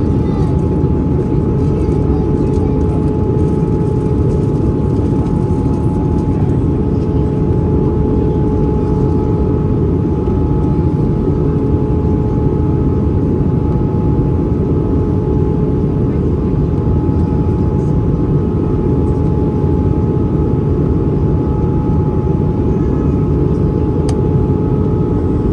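Steady cabin noise of an Airbus A320-214 heard from an over-wing window seat: a loud low rumble of airflow and its CFM56 engines running, with a few constant engine tones humming over it.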